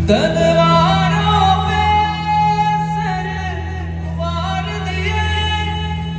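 A solo voice singing a song in long, sliding, held phrases over a steady low drone.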